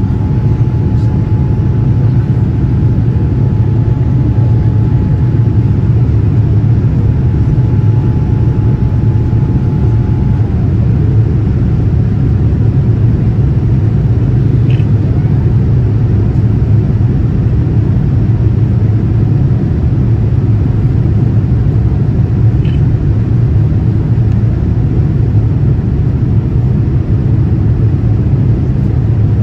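Steady, loud, low cabin noise of an airplane in flight, the engines and rushing air blending into one even rumble. A faint thin tone runs along above it, then dips and stops about ten seconds in.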